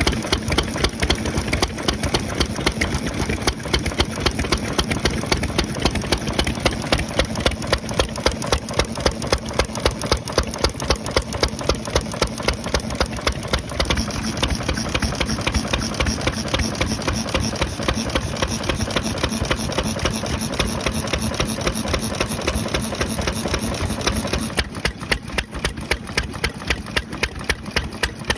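Izushi kerosene stationary engine running at idle, its exhaust beating evenly about two to three times a second through a small onion-shaped muffler; the sound gets a little quieter near the end.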